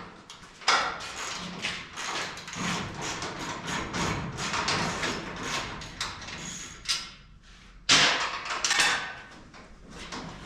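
Irregular knocking and clattering of hand tools on metal, a quick run of knocks with louder bangs about a second in and again near eight seconds.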